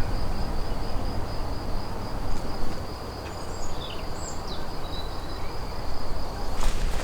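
An insect trills steadily in a high thin tone that stops abruptly near the end, with a few faint bird chirps midway and a low rumble underneath.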